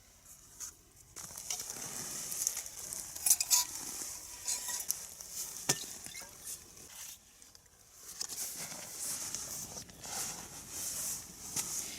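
Rain pattering on a tarp shelter, coming and going unevenly, with a few sharper ticks and a brief lull about seven seconds in.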